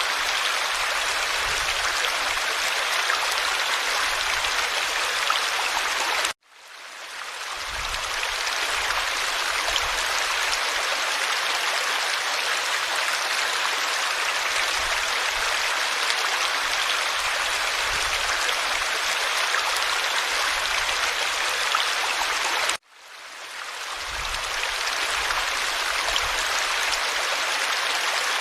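Forest stream flowing, a steady rush of water. Twice, about a quarter of the way in and again near the end, the sound cuts out suddenly and fades back in over a second or so: joins between recordings.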